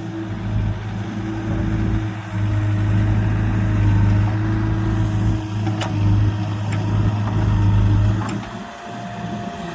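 Tractor diesel engine running steadily at a constant speed, easing off briefly near the end, with a few faint metallic clicks over it.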